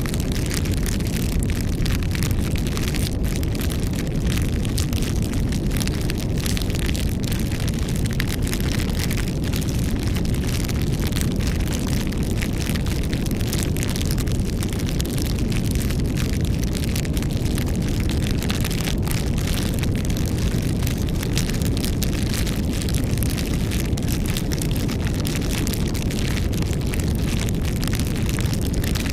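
Campfire burning steadily: a constant low rumble of flame with many small crackles and pops from the burning wood.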